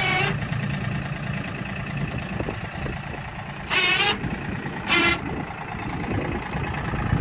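Tractor engine idling steadily, with three short high-pitched squeals cutting in: one at the start, one around the middle, and one about a second after that.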